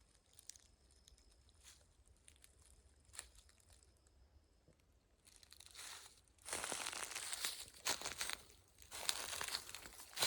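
Footsteps crunching through dry leaf litter, starting about halfway through and coming in uneven bursts; before that only faint scattered ticks and a thin high steady tone.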